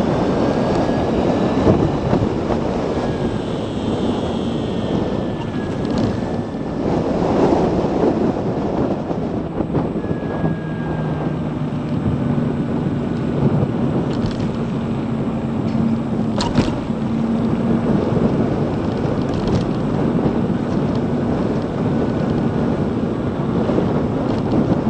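Wind rushing over the microphone of a camera mounted on a Zero DSR electric motorcycle riding at road speed, with road noise and low steady hums beneath. One sharp click comes about two-thirds of the way through.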